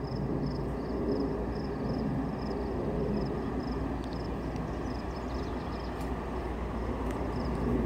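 Steady low rumble of a distant approaching CSX manifest freight train's diesel locomotives. A faint high chirp repeats about two to three times a second over it.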